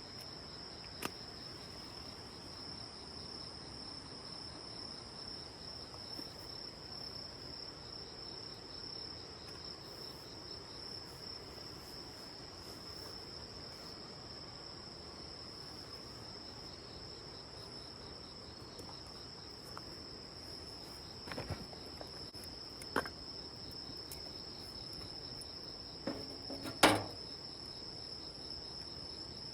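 A steady, continuous high-pitched trilling of night insects over faint background hiss. A few short knocks come in the second half, the loudest near the end.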